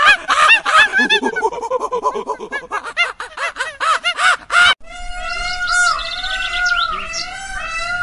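Barbary macaques giving rapid, high, squeaky chattering calls, many a second, for nearly five seconds. The calls cut off abruptly and are replaced by steady warbling bird calls and chirps.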